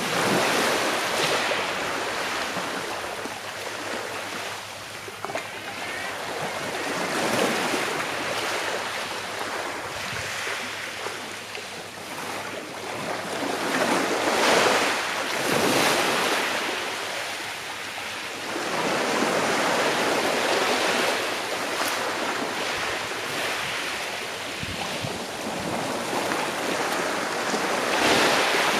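Sea waves washing onto a shore, a hiss that swells and fades every few seconds as each wave breaks and draws back.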